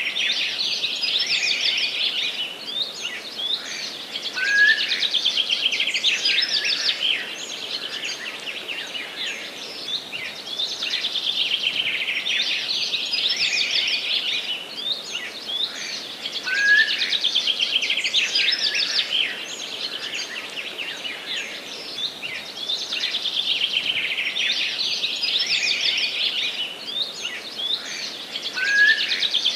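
Several forest songbirds singing at once, a dense run of overlapping high chirps and trills that swells and eases every few seconds, with a short lower rising note three times.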